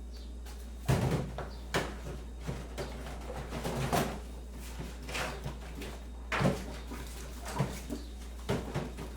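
Kitchen handling sounds: a series of about ten separate knocks and clunks, the loudest about a second in and another strong one near six and a half seconds, over a steady low hum.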